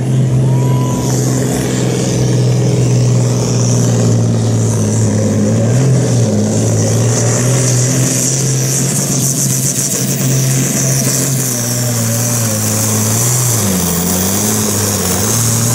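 Pulling tractor's engine running hard at high, steady revs under load, with a high hiss over it. Near the end the revs dip and recover a couple of times.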